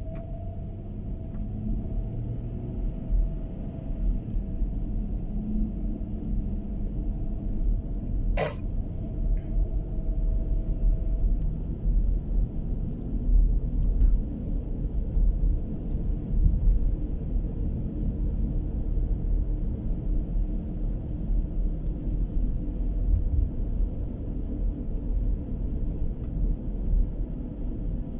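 Steady low rumble with a single sharp click about eight seconds in.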